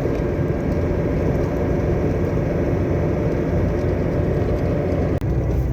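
Steady engine and road noise heard from inside a moving truck's cab, with a brief click about five seconds in.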